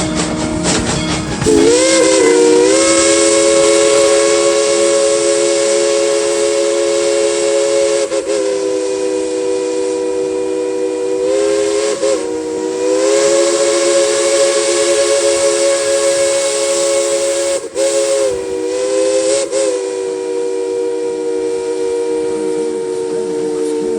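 Steam locomotive's chime whistle blowing long, drawn-out blasts, three notes sounding together as a chord over a hiss of steam. It starts about a second and a half in, dips briefly and bends in pitch a few times, and carries on to the end.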